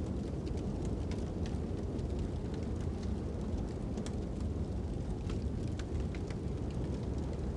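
Wood fire crackling with irregular sharp pops and snaps over a steady low rush of wind.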